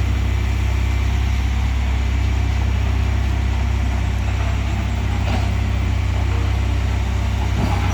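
A motor vehicle engine running steadily with a low, even hum, as it would when idling, with no revving.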